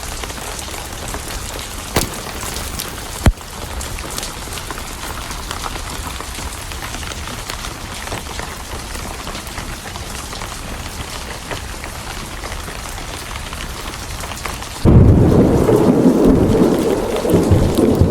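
Steady rain with a few sharp crackling pops from a wood fire, two of them standing out about two and three seconds in. Near the end a loud, deep thunderclap breaks in suddenly and rumbles on.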